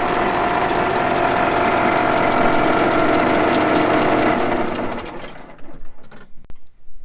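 An engine running steadily with a mechanical clatter, then shut off about five seconds in; a few light knocks follow.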